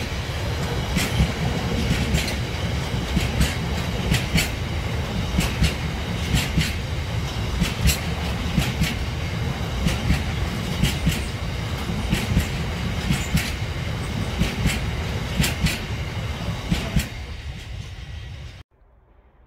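Freight train of Drax biomass hopper wagons rolling past close by, the wagon wheels rumbling and clicking over the rail joints in a quick, irregular clickety-clack. The rumble fades as the last wagon clears, and the sound cuts off suddenly near the end.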